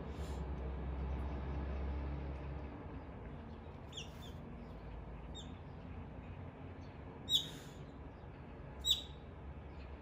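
A few short, high bird chirps that drop in pitch, the two loudest about seven and nine seconds in, over a low steady background rumble.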